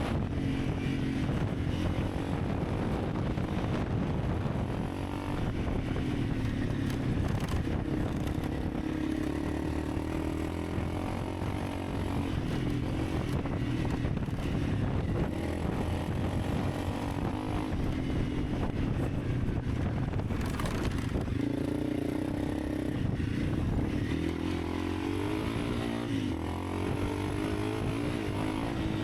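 Honda CRF300 Rally's single-cylinder engine running under way, its note rising and falling several times as the throttle is opened and eased, over a steady rush of wind and road noise.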